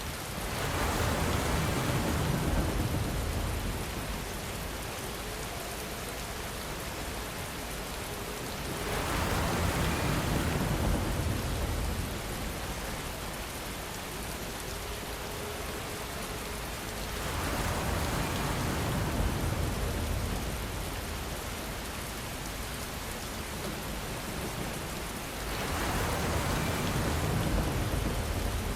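Steady rain falling, swelling louder and deeper four times, about every eight seconds.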